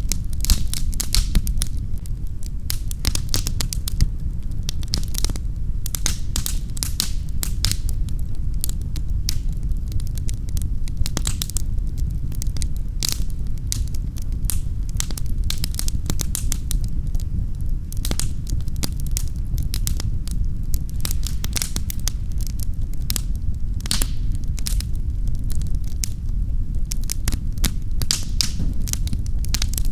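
Wood fire crackling in a fireplace: a continuous run of sharp snaps and pops over a steady low rumble of the flames.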